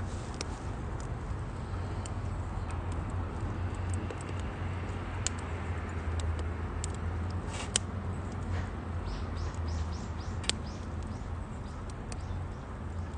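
Firewood crackling and popping as it burns in a UNIFLAME Nature Stove Large, a compact steel wood stove. Sharp pops come at irregular moments, the loudest a little after halfway and about four-fifths through, over a steady low hum.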